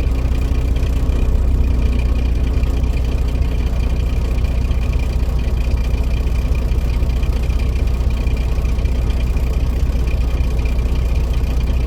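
Truck engine running with a steady low drone, a thin constant high whine above it.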